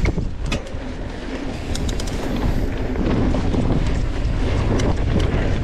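Mountain bike riding a dirt jump line: wind buffeting the camera microphone and tyres rolling on dirt, with scattered clicks and rattles from the bike.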